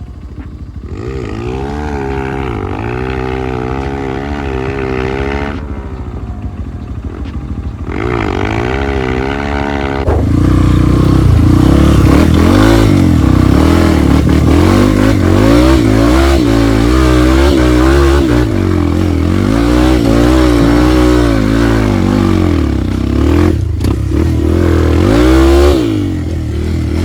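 Trail motorcycle engine revving up and down repeatedly under load, with some clatter. It eases off briefly and gets louder and heavier from about ten seconds in.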